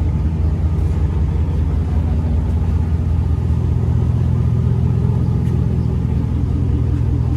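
Pickup truck engine idling steadily, a constant low rumble.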